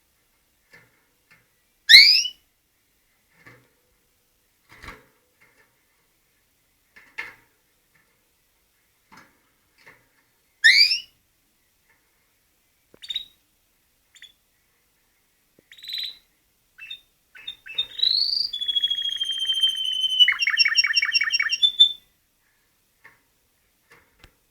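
Male canary calling with two loud, quickly rising chirps and a few soft peeps, then singing a short phrase near the end: a sweeping note, a held whistle and a fast trill of repeated notes.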